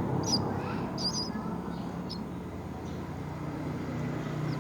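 Short high bird chirps, about three in the first two seconds and a fainter one later, over a steady low hum.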